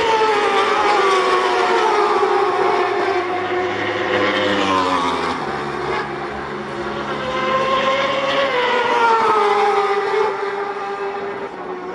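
Superbike racing motorcycle engine at high revs. Its pitch falls over the first few seconds as it slows, climbs again in the middle, and drops once more near the end.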